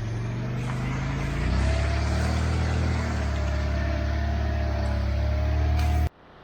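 Vehicle engine running, then revved up about a second and a half in and held at high revs under throttle as a vehicle stuck in mud is driven hard. The sound cuts off abruptly near the end.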